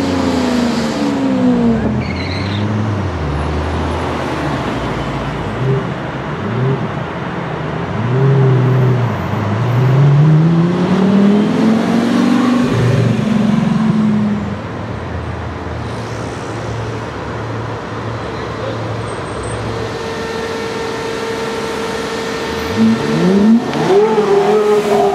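Supercar engines revving and accelerating as rally cars pass one after another, the engine pitch rising and falling several times. A Lamborghini Aventador roadster's V12 pulls away at the start, and a Porsche Carrera GT's V10 revs near the end.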